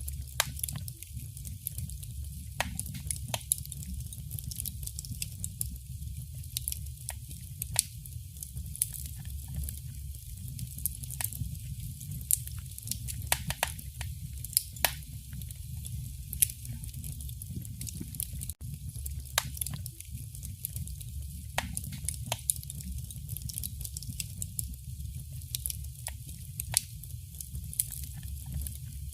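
Wood fire in a fireplace crackling, with frequent sharp pops and snaps at irregular intervals over a low, steady rumble of the flames.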